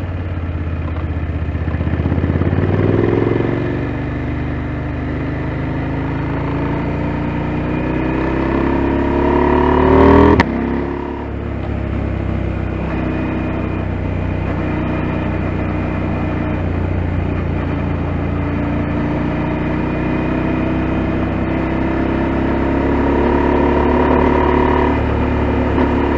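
KTM 890 Adventure's parallel-twin engine pulling through the gears on the move. The pitch climbs and drops at a shift about three seconds in, then climbs hard to a peak about ten seconds in, where it cuts off sharply with a click as the throttle closes. After that it pulls in long, slower rises with another drop near the end.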